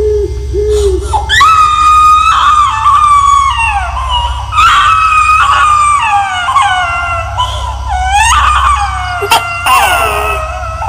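Eerie high-pitched wailing: several long cries that slide down in pitch and overlap one another, over a steady low drone.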